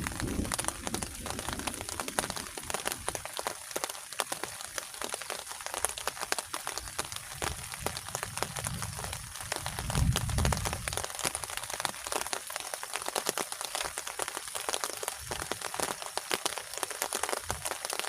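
Dense, steady crackling and crinkling, many small clicks close together, with a dull low thump about ten seconds in.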